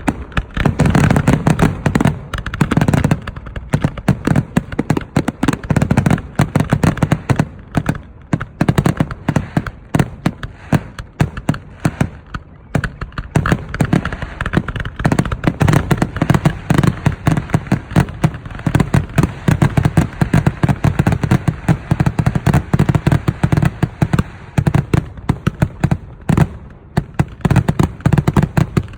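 Professional fireworks display: a loud, continuous barrage of bursts going off many times a second, with no let-up.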